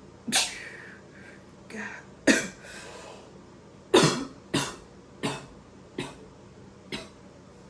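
A man's coughing fit after inhaling from a cannabis vape pen: about seven harsh coughs, a second or so apart, growing weaker toward the end.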